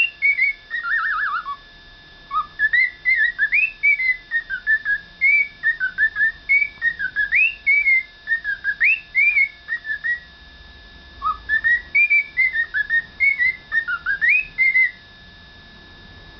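Cockatiel whistling a tune in quick, gliding notes, in phrases broken by a short pause about two seconds in and a longer one around ten seconds in; the whistling stops shortly before the end.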